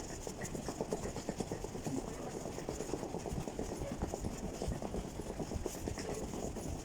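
Passengers disembarking from an airliner cabin: a continuous clatter of footsteps, shuffling and luggage knocks, with murmured voices.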